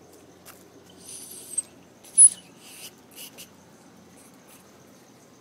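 A handful of short, very high-pitched squeaks or chirps over a second or two, the sharpest one a little past two seconds in, over a faint steady high-pitched tone.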